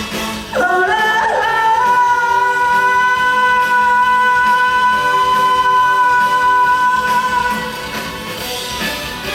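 A female singer slides up into one long, high held note, sustained for about six seconds over the song's backing music, which carries on after the note ends.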